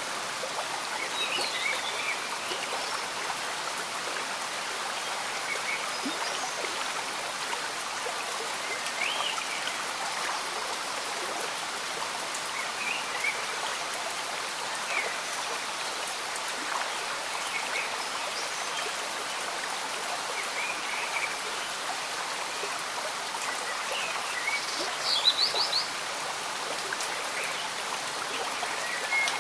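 Gentle bubbling of a slow-moving stream mixed with steady light rain falling in a forest. Short bird chirps come and go throughout, with a brief burst of them near the end.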